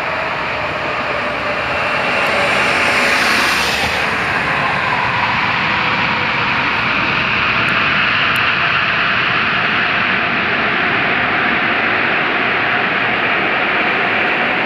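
Airbus A380 jet engines running during landing: a loud, steady rushing noise, with a high hiss on top that fades about four seconds in.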